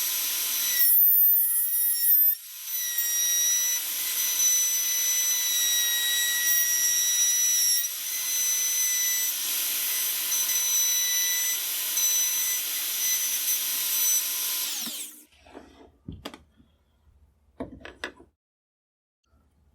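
Router running and cutting a shallow recess into a walnut gunstock blank: a steady high-pitched whine that dips briefly about two seconds in, then stops about fifteen seconds in. A couple of light knocks follow.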